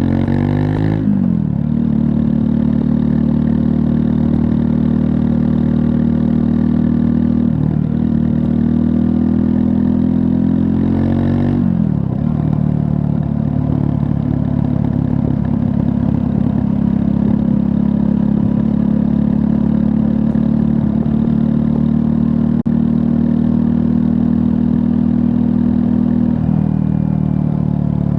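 2024 Triumph Scrambler 400 X's 398 cc liquid-cooled single-cylinder engine running steadily under way. The engine note glides and shifts in pitch about a second in and again near twelve seconds, as revs change between gears.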